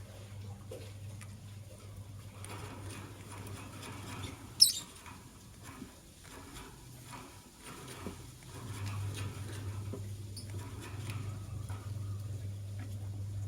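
Lovebirds moving about in their cage with light scratching, pattering and pecking ticks, and one short, sharp, high chirp about four and a half seconds in. A steady low hum sits underneath and gets louder in the second half.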